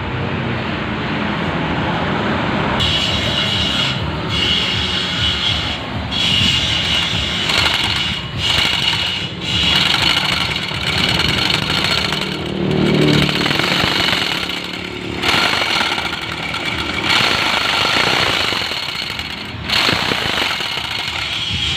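Electric jigsaw cutting a circle in plywood, running steadily, with its higher cutting tone dropping out briefly every second or two.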